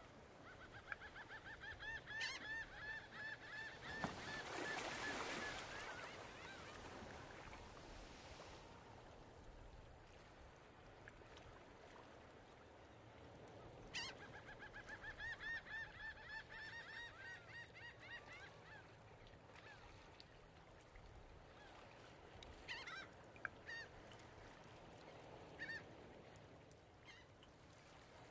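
Faint bird calls: two long runs of quick, repeated high notes, one starting about a second in and one about fourteen seconds in, with a few single calls near the end. A brief rush of noise comes around four seconds in.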